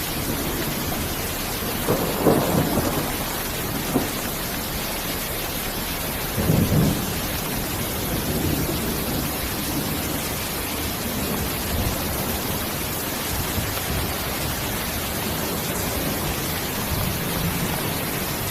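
Steady heavy rainfall with low rolls of thunder, two swells of rumble about two and six and a half seconds in and a short crack between them.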